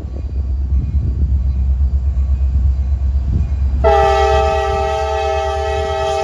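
Lead locomotive of a CSX freight, EMD SD70MAC 4763, rumbling low, then sounding one long multi-note air horn chord that starts about four seconds in and holds.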